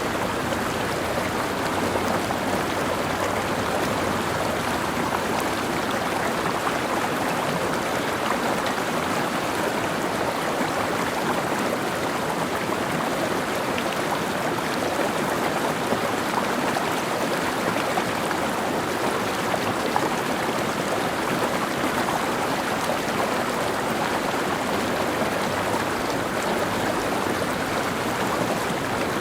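Mountain stream flowing steadily, a constant rush of water over rocks with small splashes and trickles through it.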